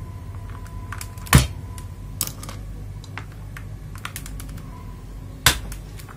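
Scattered plastic clicks and taps from an FL Esports MK870 mechanical keyboard and its switches being handled, with two louder knocks, one about a second in and one near the end.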